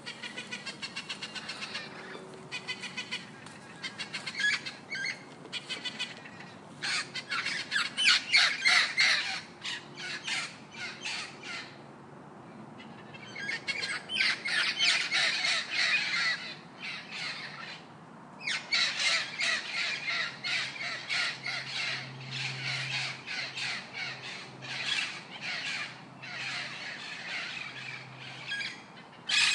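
Birds squawking and calling in fast, harsh runs of notes, with short lulls twice.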